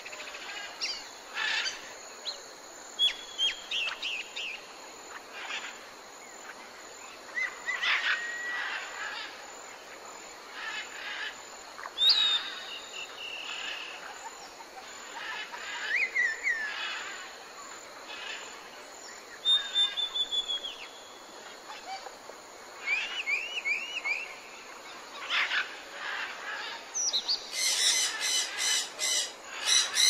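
Several forest birds calling over a steady background hiss: short chirps, whistled phrases and trills scattered through. Near the end come harsh, rapidly repeated squawking calls.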